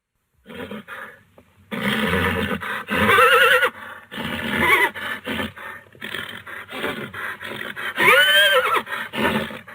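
A horse whinnying: a warbling, quavering call about three seconds in and a louder call near the end whose pitch rises and then falls, with breathy noisy sounds between, starting after about half a second of silence.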